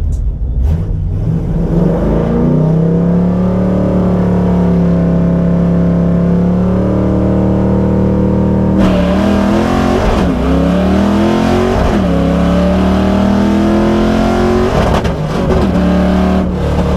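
Fox-body Mustang GT's 5.0 V8 heard from inside the car, revving up from idle, holding steady revs, then pulling hard through the gears with several shifts, each a sudden drop in pitch.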